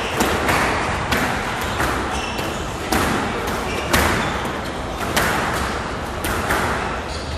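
Squash rally: the ball smacked by racquets and hitting the court walls, sharp hits about once a second, each echoing briefly around the court.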